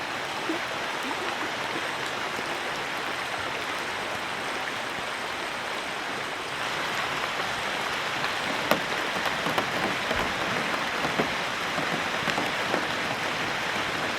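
Heavy rain falling steadily: a dense hiss with scattered sharper drop hits, getting a little louder about six and a half seconds in.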